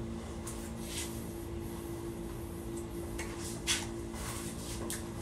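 A person chewing a bite of pizza with crust: a few short chewing and mouth sounds, the sharpest about three and a half seconds in, over a steady low hum.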